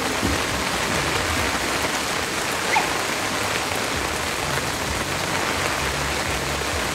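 Heavy rain pouring steadily onto a flooded street, a dense even hiss, with one brief high chirp about three seconds in.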